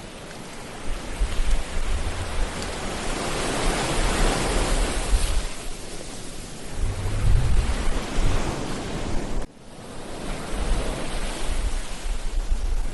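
Ocean waves breaking and washing on a beach, one swell building to a peak a few seconds in. Wind buffets the microphone in low rumbling gusts, and the sound dips suddenly for a moment about two-thirds of the way through.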